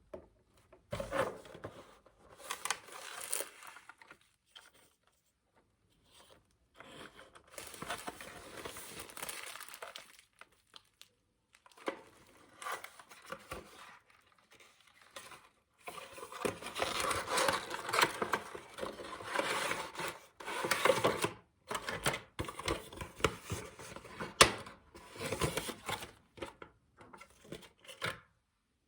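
Packaging being torn open and crumpled by hand, in irregular bursts of rustling and tearing with short pauses.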